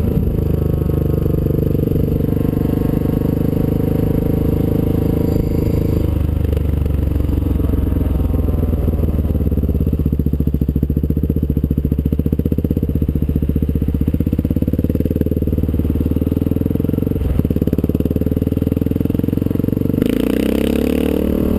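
Honda XR600's air-cooled single-cylinder four-stroke engine running steadily under way, with its revs rising near the end as the bike accelerates.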